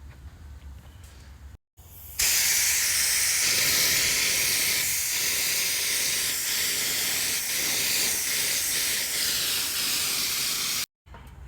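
Compressed-air paint spray gun spraying primer: a loud steady hiss that starts abruptly about two seconds in and cuts off near the end, with a few brief dips along the way.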